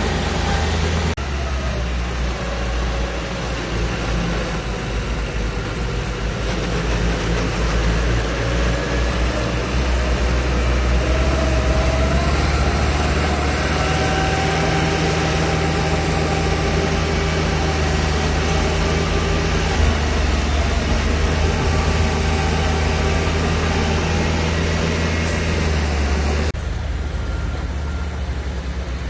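Heavy diesel engine of earthmoving machinery running with a steady low rumble and faint wavering whines above it. The sound changes abruptly about a second in and again near the end.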